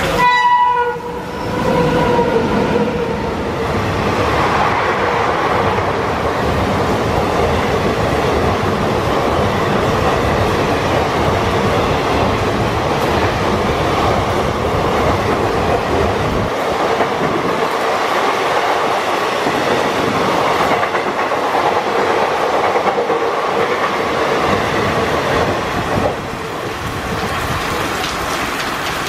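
WAP-5 electric locomotive's horn sounding for about two seconds as it arrives, then the coaches of the express passing at speed with steady wheel-and-rail noise and clickety-clack over the rail joints. The noise drops a little near the end as the train goes away.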